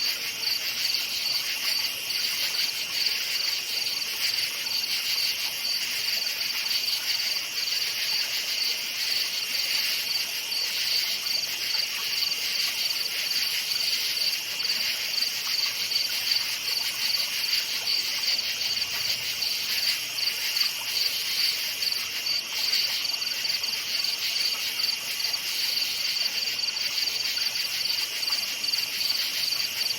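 Crickets chirping in a steady, continuous chorus, a rapid pulsing trill that holds its level throughout.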